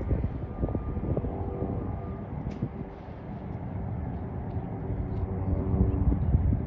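A motor vehicle's engine running and drawing nearer, growing louder toward the end, over a low outdoor rumble.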